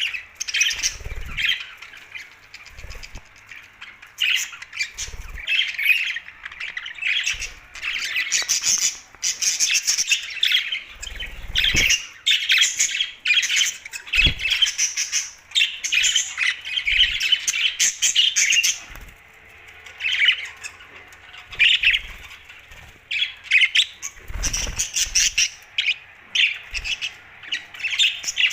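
A flock of pet budgerigars chattering and squawking continuously, with a few brief low thuds among the calls.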